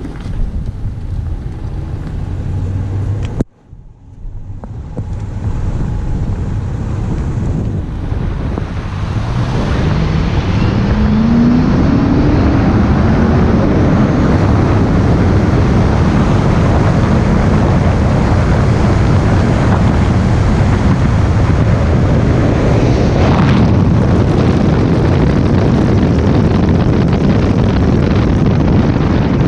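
A vehicle engine accelerating hard, its pitch rising for a few seconds, then running at speed under loud, steady wind and road noise. The sound drops out briefly near the start.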